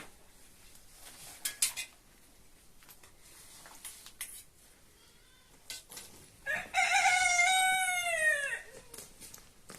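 A rooster crowing once: a single loud call of about two seconds that falls in pitch at the end. A few scattered knocks come before it.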